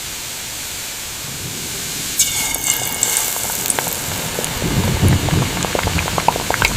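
Rain falling steadily, growing heavier about two seconds in, with drops ticking sharply on a surface. A low rumble joins in the second half.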